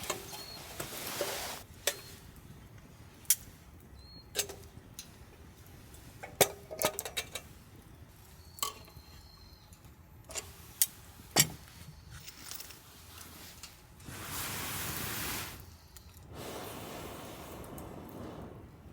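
Metal camp cookware being handled: a string of sharp clinks and knocks of pots, lids and utensils. Near the end come two stretches of steady rushing noise.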